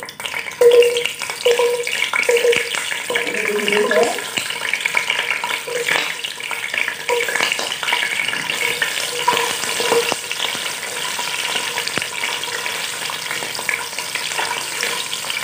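Whole peeled shallots sizzling and crackling as they fry in hot oil in a stainless steel pot, stirred with a slotted spatula. A few sharper knocks near the start as more shallots go into the oil.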